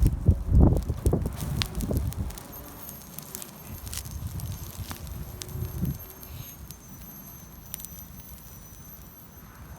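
Campfire of gathered wood crackling, with scattered sharp pops. Heavier thumps and rustling in the first two seconds, and a faint steady high whine from about two and a half seconds on.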